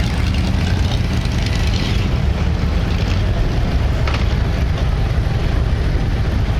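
Motorcycle engines running with a steady low rumble, loud and unbroken.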